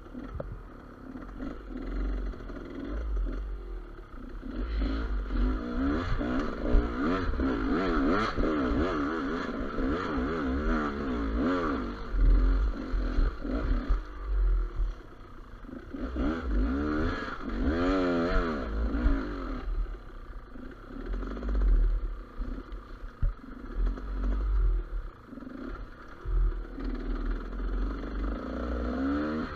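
Gas Gas EC200 two-stroke enduro motorcycle engine revving up and down repeatedly while riding, with clatter from the rough ground and low buffeting on the microphone.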